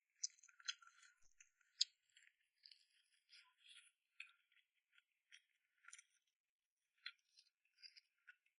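Close-miked eating sounds: an irregular run of soft wet clicks and smacks from chewing, with the sharpest clicks in the first two seconds.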